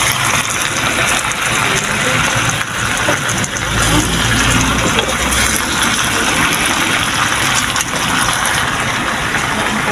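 Chopped roast pork sizzling in hot oil in a wok as it is stirred and turned with a spatula: a steady hiss.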